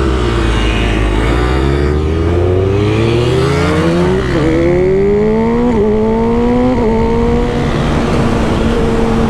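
Motorcycle engine accelerating through the gears: the engine note climbs, drops back at quick upshifts about four, six and seven seconds in, then holds a steady pitch.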